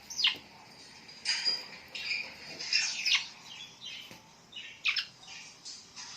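Birds calling: short, sharp calls that sweep down in pitch, coming irregularly about once a second with softer chirps between.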